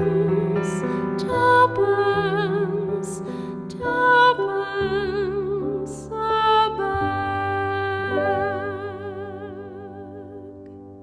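Closing bars of a song for female voice and piano: held notes with vibrato over piano chords, the last chord dying away over the final few seconds.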